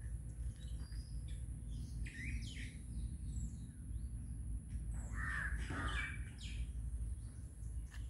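Birds calling, with short calls about two seconds in and one louder, harsher call about five seconds in, over a steady low rumble.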